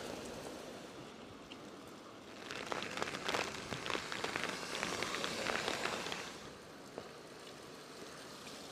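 Steady rain-like hiss, with a louder stretch of dense crackling patter from about two and a half to six seconds in.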